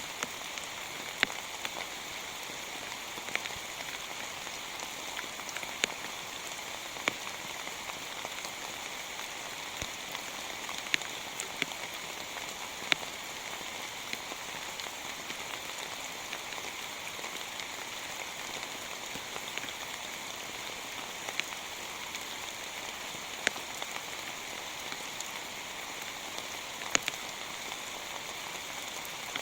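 Heavy rain falling steadily, with sharp single drops hitting close by every few seconds.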